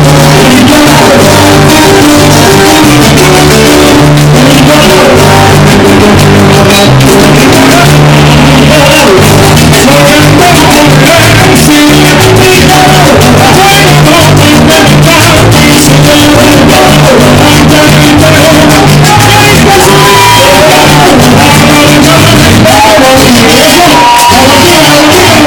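Live Latin band music with singing, a steady bass line and percussion, loud and distorted on the recording.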